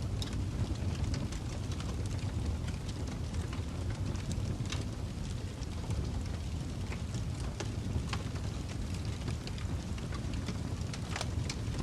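Fireplace fire burning, with a steady low rumble of flames and irregular sharp crackles and pops from the burning wood.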